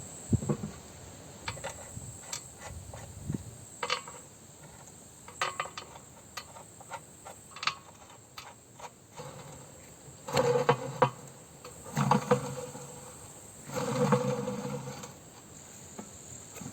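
Metal parts of a Z-178 drum mower's cutting rotor clinking and knocking as the blade assembly is fitted onto the drum, with three longer scraping rattles about two seconds apart near the end.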